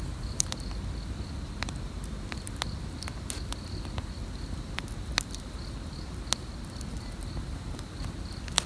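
Wood campfire crackling, with irregular sharp pops over a low rumble from the flames. An insect chirps steadily in the background as a high pulsing tone.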